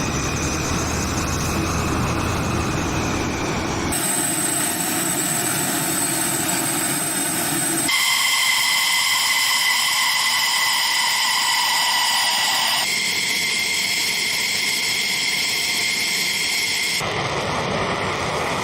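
Military jet engines running: a steady roar with a high turbine whine held on several pitches. The sound cuts abruptly from one take to the next every four to five seconds.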